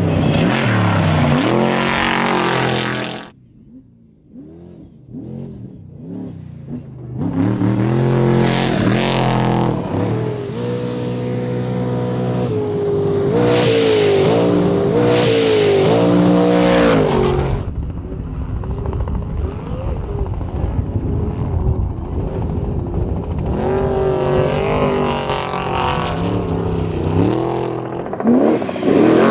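Off-road race truck engines revving hard, the pitch climbing and falling with the throttle. The sound drops away sharply about three seconds in and comes back loud a few seconds later, then turns rougher and noisier in the second half.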